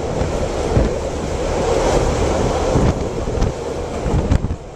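Moving passenger train heard from an open window: wind rushing over the microphone over the steady rumble of the carriages running on the rails, with a few sharp clicks. The wind noise eases near the end.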